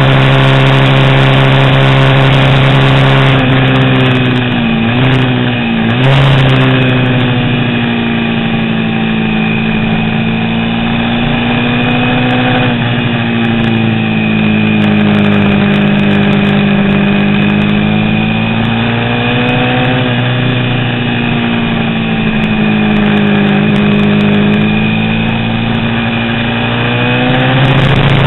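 A vintage 350 cc racing motorcycle engine running hard. Its pitch holds steady at high revs at first, drops sharply twice around five seconds in as it is shifted or throttled back, then falls and climbs again in long slow sweeps as the revs change through the corners.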